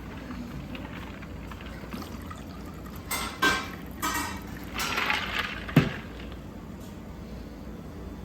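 A few short clattering handling noises over about three seconds, ending in one sharp knock, over a steady background hum.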